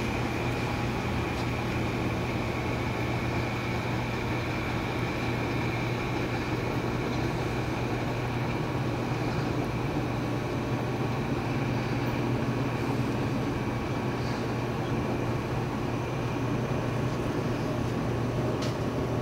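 Metro-North M8 electric train pulling away. Its high propulsion whine fades over the first several seconds, over a steady low hum and rumble.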